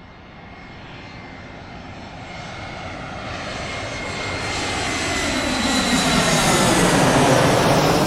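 Airplane flying past: its engine noise grows steadily louder, peaking near the end before it starts to fade.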